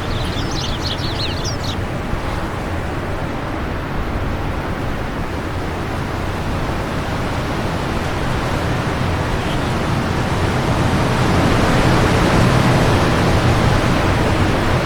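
Wind rushing steadily, swelling in a gust toward the end. A bird chirps rapidly in the first second or so.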